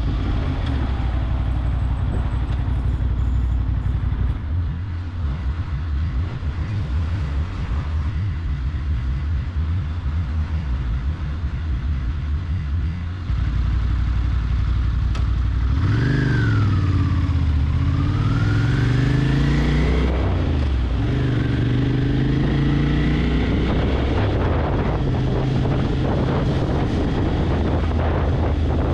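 Motorcycle engine running under way with a steady low drone. About halfway through, the engine pitch falls and rises several times as it accelerates and changes gear.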